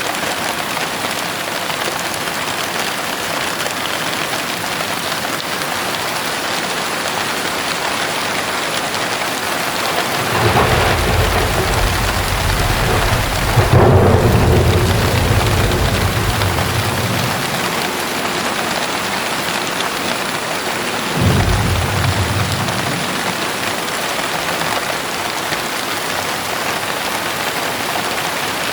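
Steady heavy rain with thunder. A long rolling rumble of thunder builds about ten seconds in, is loudest a few seconds later and dies away. A shorter, sharper peal follows a few seconds after that.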